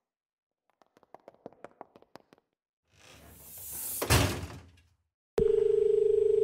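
A run of faint quick taps, then a rising whoosh ending in a door thump about four seconds in. From about five seconds in comes a steady telephone ringback tone, the sound of an outgoing call ringing at the other end.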